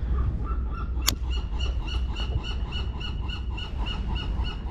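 A click about a second in, then a fishing reel being cranked: a rhythmic squeaky whirring, about five pulses a second, over low wind rumble on the microphone.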